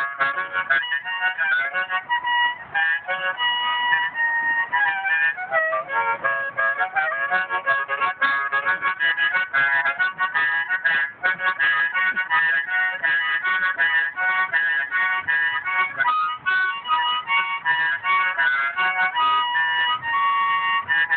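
Harmonica playing an instrumental break: quick, rhythmic runs of notes and chords with some longer held notes.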